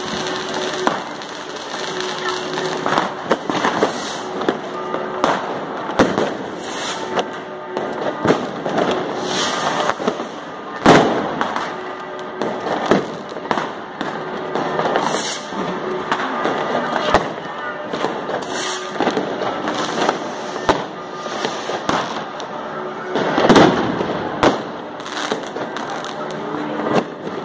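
Fireworks and firecrackers going off all around in an unbroken stream of bangs and crackles. The sharpest bang comes about eleven seconds in, and a dense cluster of bangs comes near the end.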